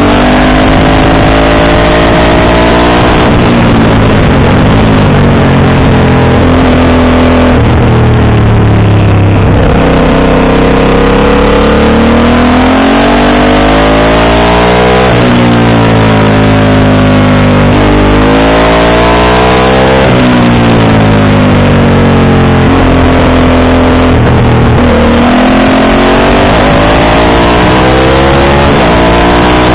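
Motorcycle engine running through an aftermarket JC exhaust, its pitch climbing and dropping again and again as it revs through the gears and eases off, with no let-up in the noise.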